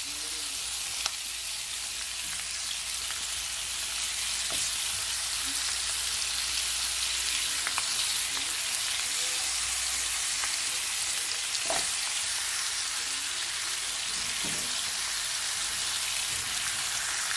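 Curry-seasoned chicken wings frying in hot oil in a wok, a steady sizzling hiss, with a few brief knocks about a second in and again near 12 and 14.5 seconds.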